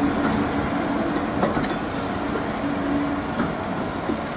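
Railway passenger coaches rolling past, their wheels running on the rails with a steady rumble and a few clicks about a second and a half in.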